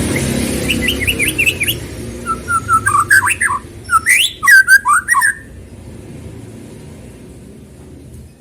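White-rumped shama (murai batu) singing: a quick run of varied whistled notes sliding up and down, breaking off about five seconds in. A low rumble of passing traffic fades under the first couple of seconds.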